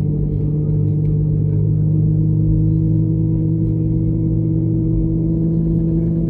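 Airbus A320neo's jet engines heard from inside the cabin: a steady drone of several humming tones over a low rumble.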